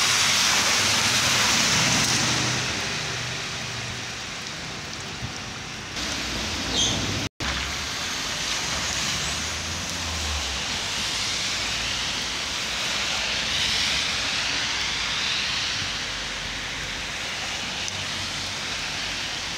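Heavy rain pouring onto wet asphalt, a steady hiss of splashing drops, loudest in the first couple of seconds, with a momentary break about seven seconds in.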